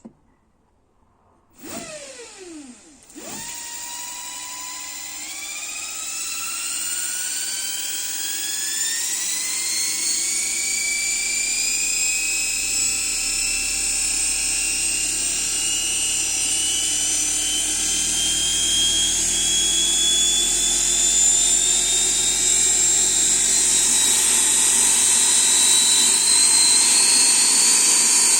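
ME1004 48 V electric motor, driven by a Curtis 300 A controller, starting up and running faster and faster. A short burst with a falling tone comes about two seconds in; from about three seconds a whine climbs slowly and steadily in pitch and grows louder as the throttle is opened.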